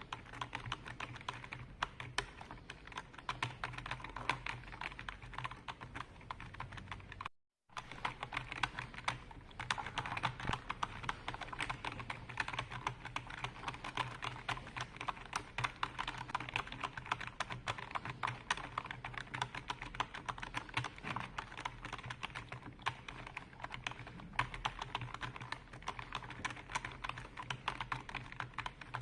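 Continuous fast typing on a computer keyboard: dense, irregular key clicks over a steady low hum. The sound cuts out completely for a moment about seven seconds in.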